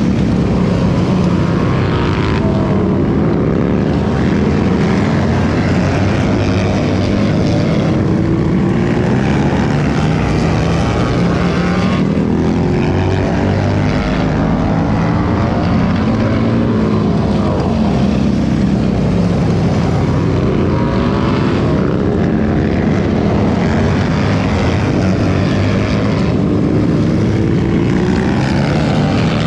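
Several racing motorcycle engines running hard together, their pitches rising and falling as the bikes rev and pass.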